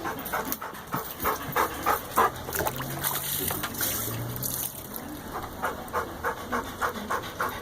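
Dog panting in quick, short breaths, about three a second, easing off for a couple of seconds in the middle: a hot dog panting to cool down.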